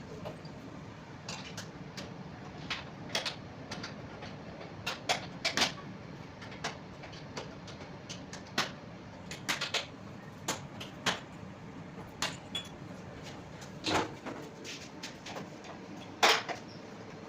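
Scattered clicks, knocks and light clatters of tools and parts being handled while a fan coil unit is taken apart, with two louder knocks near the end, over a steady low hum.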